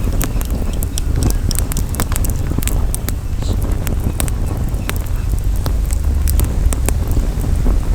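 Campfire crackling, with frequent irregular sharp pops, over a steady low rumble of wind on the microphone.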